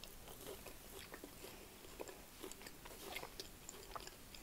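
A person chewing a mouthful of Yorkshire pudding and mashed potato close to the microphone, faint, with small irregular mouth clicks and soft crunches.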